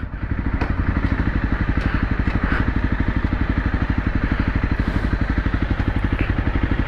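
Honda CRF250 single-cylinder four-stroke dirt bike engine running steadily at low revs, an even, rapid putter with no revving.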